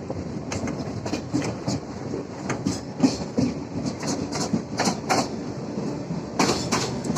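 Suburban electric local train running, heard from inside the coach: a steady rumble with wheels clicking over rail joints several times a second.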